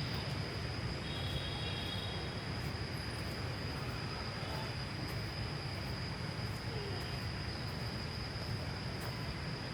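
Steady outdoor background noise: a low rumble with a constant thin high-pitched whine over it, and a faint short tone about a second in.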